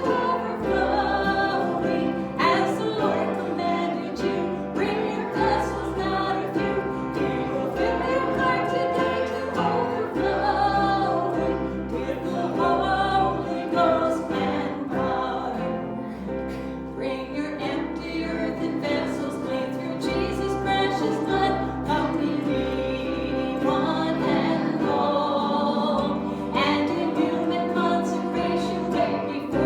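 Worship song sung by a group of voices with instrumental accompaniment and a held bass line that changes note every second or two.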